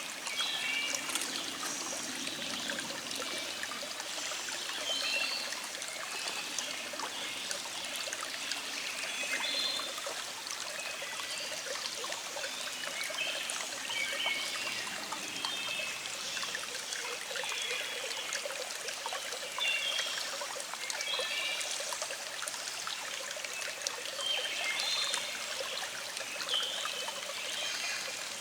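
Small stream trickling and babbling steadily, with songbirds chirping and singing on and off over it.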